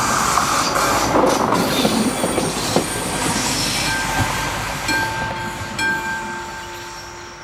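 A diesel railcar running past a level crossing, its wheels clattering and squealing on the rails. The sound fades away over the last few seconds as the train moves off.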